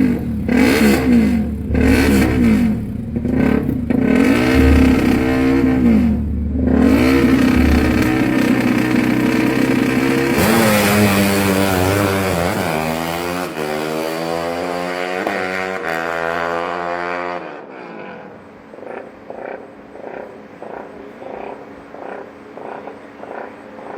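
Freshly rebuilt KTM 350cc single-cylinder motorcycle engine being run in. It is blipped up and down about once a second, then revved higher with the revs slowly falling away. About 17 seconds in it drops to a much quieter, evenly pulsing sound.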